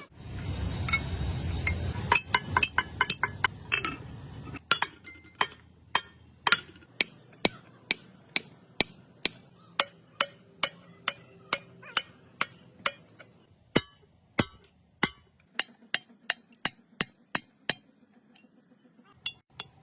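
Steel being struck repeatedly with a hammer: sharp, ringing metallic clinks about two a second, quickening for a few strokes near the end before a short pause. A low rumble runs under the first four seconds.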